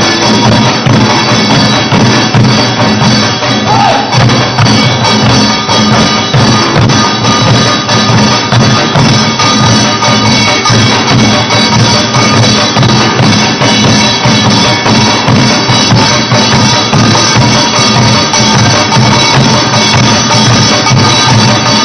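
Group of Korean buk barrel drums beaten together in a loud, dense, driving rhythm: a pungmul drum ensemble performing.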